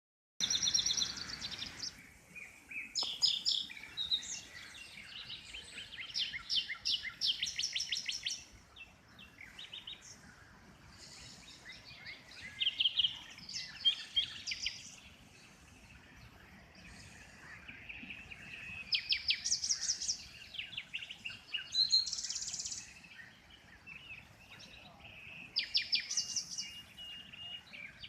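Many birds singing and calling at once: overlapping high chirps and fast trills that come in bouts every few seconds.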